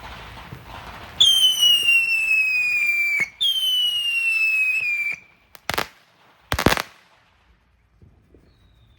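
Two whistling fireworks, each shrieking for about two seconds with a falling pitch, followed by two sharp bangs about a second apart.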